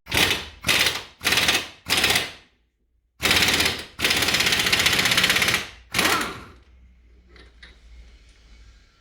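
Impact wrench hammering at fasteners on a car's front suspension during strut removal. Four short bursts, then two longer runs and a final short burst.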